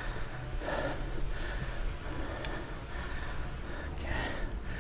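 Wind rumbling on a GoPro microphone muffled by a foam wind cover, with the hum of a folding bike's tyres on a paved path. There is a faint tick about halfway through.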